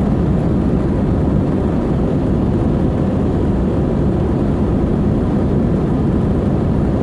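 Airbus A320 jet engines and airflow heard from inside the cabin: a steady, loud low rumble with a faint constant hum above it, unchanging throughout.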